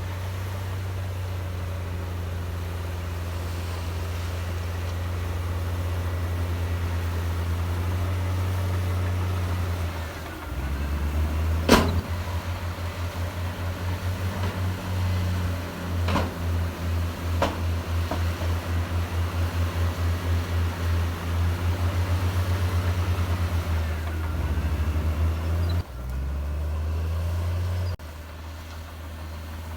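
Heavy diesel engine of earthmoving machinery running with a deep, steady note that turns into an even throbbing about a third of the way in. One sharp metallic clank and, a few seconds later, two lighter ones ring over it.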